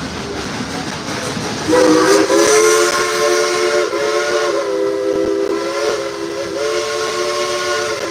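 Baldwin steam locomotive's chime whistle blowing one long blast of several notes at once, starting about two seconds in and wavering briefly a few times before cutting off. Under it, the train runs with a steady rumble and hiss.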